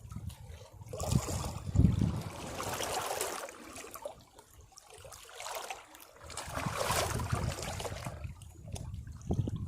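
Sea waves breaking against rocks: two surges of rushing, splashing water, the first with a heavy low thump a little under two seconds in, the second about seven seconds in, with quieter trickling and draining between.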